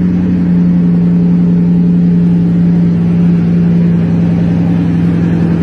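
Bugatti hypercar engine idling steadily just after start-up, one even, loud engine note that holds its pitch.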